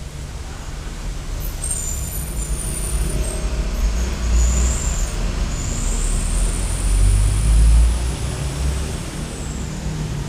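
Road traffic going by: a heavy low engine rumble that swells and fades, with a long high-pitched whine over it near the middle.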